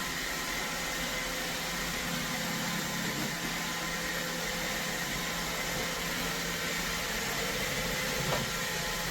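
iRobot Roomba 692 robot vacuum running: a steady whirring noise from its motor and brushes, with a faint steady whine.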